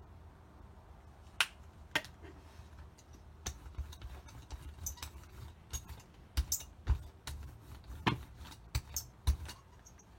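Irregular clicks and taps of craft tools and materials being handled on a tabletop during gel-plate printing, a dozen or so sharp knocks spread unevenly, over a low steady rumble.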